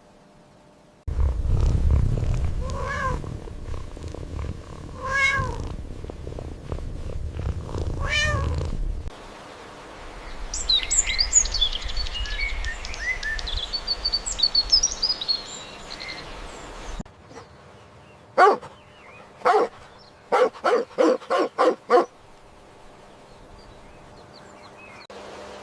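A cat purring, with three meows over the purr, then many quick high chirps like birdsong for several seconds, then short animal calls: two separate ones, then six in quick succession.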